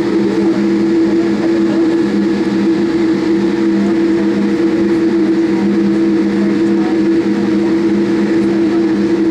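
Boeing 787 Dreamliner's cabin noise in flight, heard from a window seat by the wing: a constant rush of engine and airflow noise with a steady low hum of a few tones that holds unchanged throughout.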